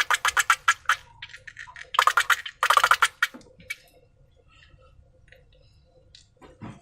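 Slime being squeezed and worked by hand, making rapid wet clicking squelches in two bursts, then only faint scattered crackles from about four seconds in.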